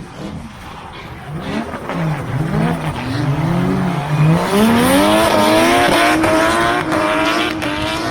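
Drift car's engine revving hard on a run, its pitch dipping and rising with the throttle for a few seconds, then climbing and holding high at full throttle, loudest in the second half.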